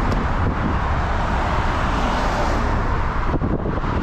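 Steady road and wind noise of a car on a highway, with a strong low rumble.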